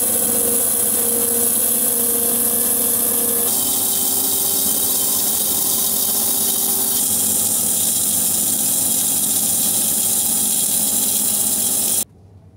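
Sawmill running steadily while milling a sycamore log, its tone shifting abruptly twice, then cutting off suddenly near the end.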